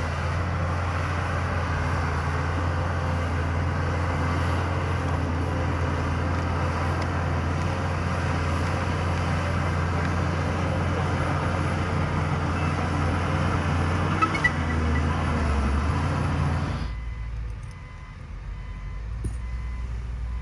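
Heavy diesel earthmoving machinery running steadily with a deep engine hum and mechanical noise. About 17 seconds in, the loud noise cuts off abruptly, leaving a quieter low engine hum.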